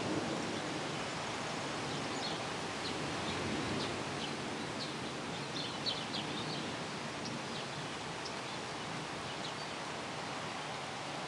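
Birds chirping in short, scattered calls over a steady rushing background noise under a thunderstorm sky.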